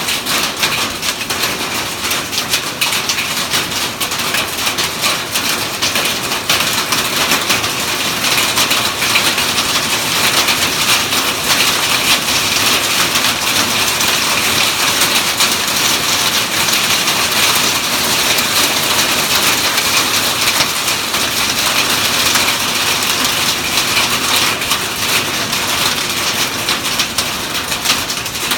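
Hail and rain pelting down in a storm: a loud, steady, dense patter of countless small hits.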